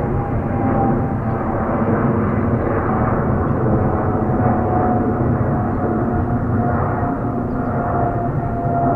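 Heavy jet airliner's engines at takeoff thrust, a loud steady rumble with a faint whine sliding slowly down in pitch as it passes.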